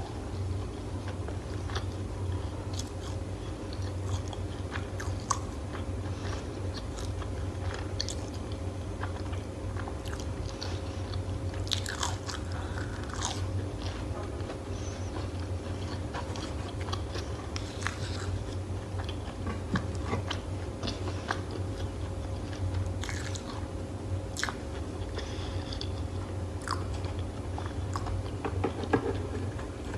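Close-miked chewing and biting of crunchy fried food, with irregular crisp crunches over a steady low hum.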